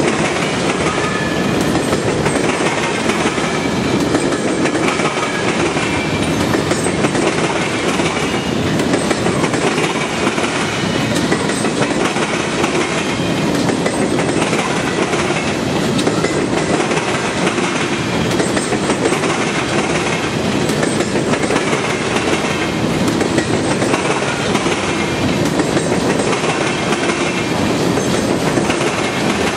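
Railroad cars of a passing train rolling by steadily, wheels clacking over the rail joints, with faint, intermittent wheel squeal.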